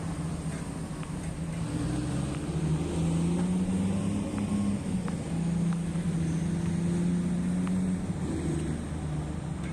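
Large diesel engine of heavy mining equipment running under load. Its pitch rises about two seconds in, holds steady, and drops back near the end.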